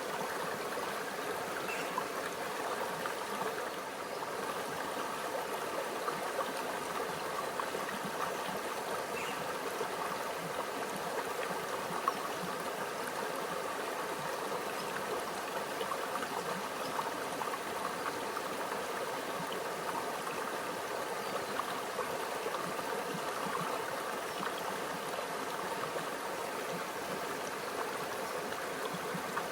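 Shallow stream flowing steadily, a continuous babble and trickle of water over stones, with a few faint small splashes.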